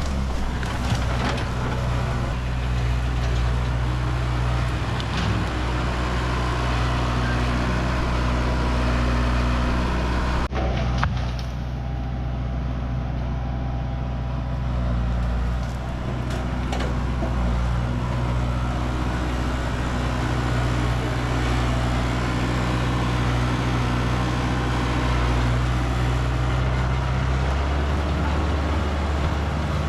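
Tractor engine running at a steady speed, a continuous low drone.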